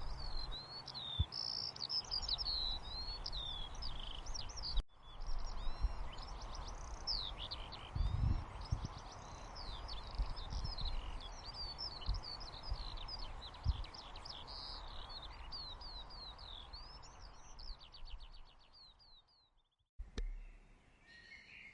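Many small birds chirping in quick, high twittering calls over a steady soft hiss of white noise, with a few soft low bumps; a brief dropout about five seconds in, and all of it fades out near the end.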